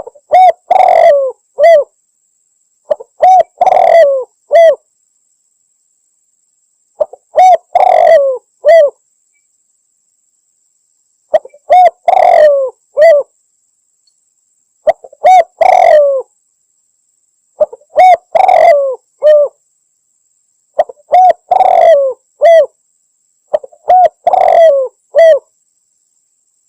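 Spotted dove cooing: eight three-note calls, short, longer, short, repeated about every three to four seconds.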